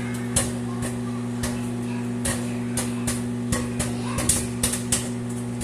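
Popcorn kernels popping in a paper bag inside a running microwave oven: scattered sharp pops, coming quicker near the end, over the oven's steady hum.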